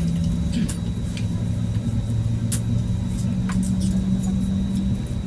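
Airbus A320neo cabin noise while taxiing: a steady low rumble with the engines' hum, whose pitch shifts in small steps, and a few light clicks and rattles.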